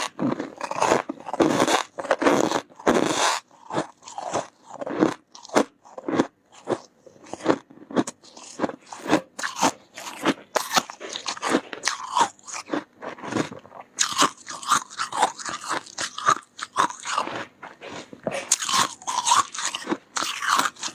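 Close-up crunching and chewing of soft, powdery freezer frost, a quick run of irregular bites and chews, each a short crisp crunch.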